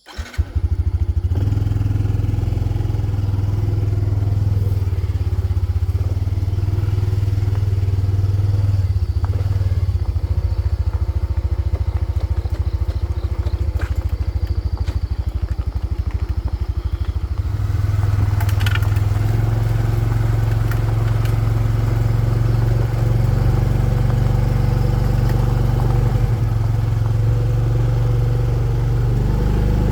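Small off-road motorbike engine running steadily under way, a loud low drone that picks up a little about eighteen seconds in.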